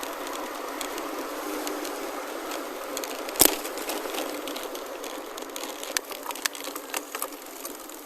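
Gravel bike rolling: steady tyre and drivetrain noise with scattered clicks and one sharp knock about three and a half seconds in. The rolling noise eases in the second half, leaving sparser clicks.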